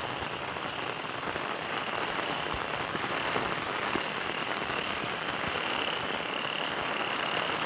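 Steady rain falling, with a chorus of frogs calling in a high, pulsing trill that grows clearer in the second half.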